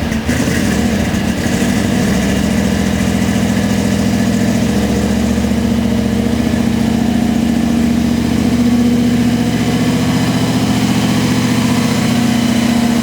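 Supercharged engine of a pro street Chevy LUV pickup idling, loud and steady.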